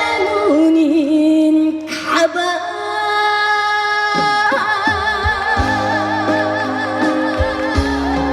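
Trot song performed live: a woman singing long held notes with wide vibrato over a backing track with a steady bass beat.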